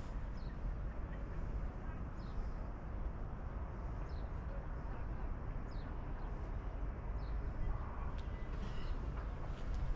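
Outdoor ambience: a steady low rumble with short, high, falling bird chirps every second or two.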